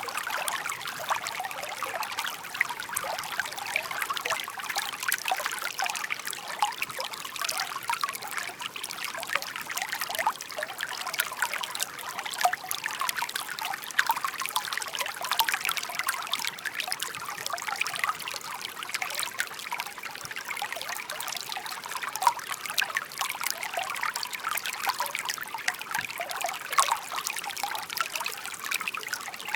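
Shallow stream babbling and trickling over stones, a steady bright splashing with many small gurgles and drips.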